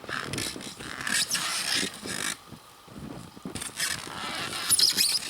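Bow saw cutting frozen fir wood: a series of rasping back-and-forth strokes with short breaks between them.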